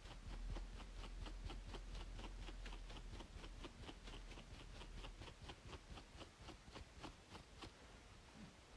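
Close, faint scratching on a scalp between braids: quick, even strokes at about four a second over a low steady hum.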